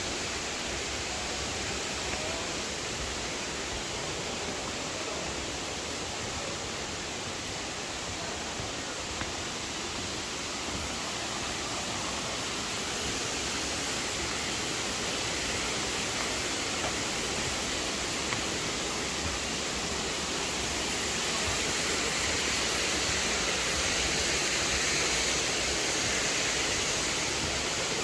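Waterfall rushing steadily, a continuous hiss of falling water that grows a little louder about three-quarters of the way through.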